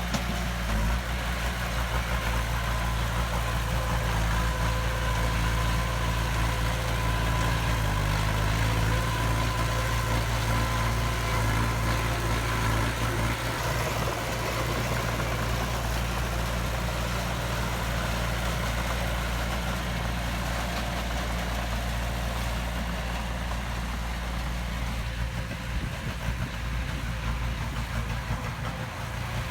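Diesel engine of heavy earthmoving machinery running steadily at low revs, with small shifts in engine note about a third and half of the way in.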